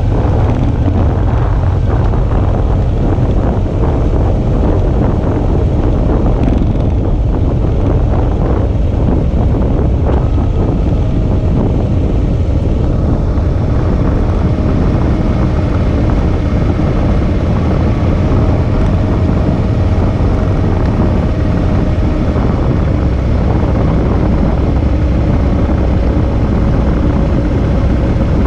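Suzuki V-Strom 650's V-twin engine running steadily under way, mixed with heavy wind rush over the microphone.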